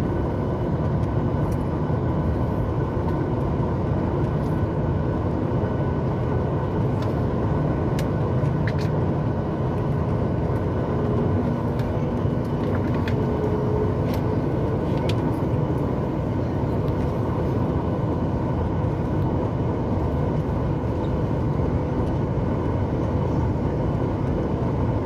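Steady cabin noise of a Boeing 737 MAX 8: an even rush from its CFM LEAP-1B engines and the airflow, with faint steady whining tones over it and a few small clicks.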